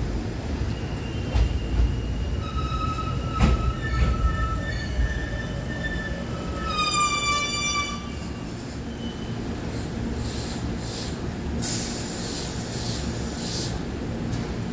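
Sanyo Electric Railway 5000-series electric train pulling into the platform and braking to a stop, with a low rumble and several high squealing tones as it slows. Near the end come short bursts of air hissing.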